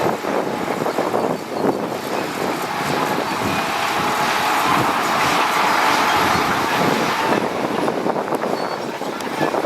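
Heavy earthmoving machinery working loose stone and soil: a dense, grinding, clattering noise that swells to a heavier rush in the middle and eases off after it.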